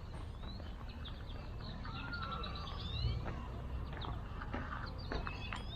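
Birds chirping, many short quick calls overlapping, over a low steady rumble.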